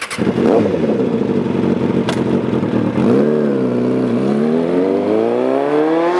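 Suzuki Bandit 650's inline-four engine pulling away under acceleration: the engine note holds steady, dips briefly about three seconds in, then rises steadily as it revs up.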